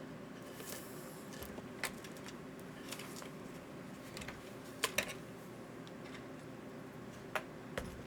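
Scattered light clicks and clacks of small parts and tools being handled on a workbench, two sharp ones close together about five seconds in and more near the end, over a steady low hum.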